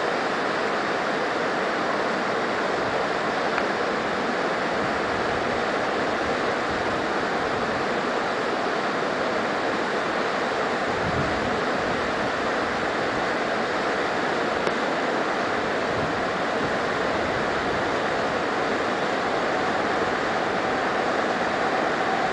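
Steady, even rushing of moving air, with no clear engine tone or rotor beat.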